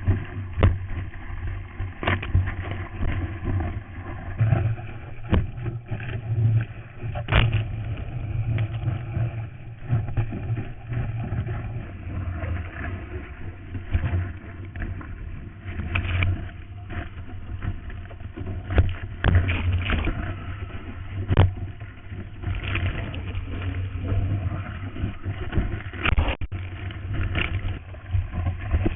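Water and wind noise through a first-edition GoPro Hero's waterproof housing while surfing: a muffled, steady low rush broken by frequent short, sharp slaps of water.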